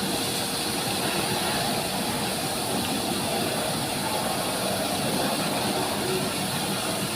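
Heavy truck at a wheel wash system, its engine running steadily under a constant hiss with a steady hum.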